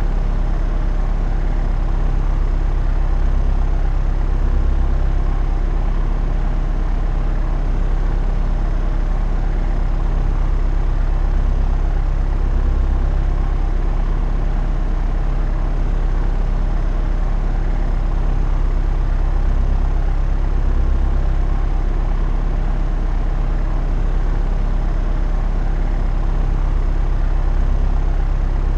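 Propeller aeroplane in flight: the engine and propeller make a steady low drone that swells gently every eight seconds or so.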